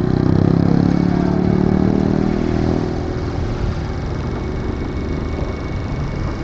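Motorcycle engine running, its even tone clear for about three seconds and then fading into a steady rough rumble of road noise.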